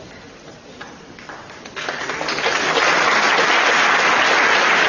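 Audience applause. After a few faint scattered claps, it breaks out about two seconds in and swells to full, steady clapping.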